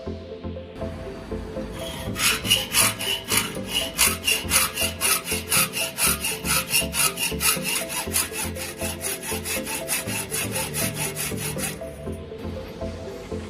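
Hacksaw blade driven back and forth by a drill cutting into wood, with quick even strokes at about four or five a second. It starts about two seconds in and stops shortly before the end.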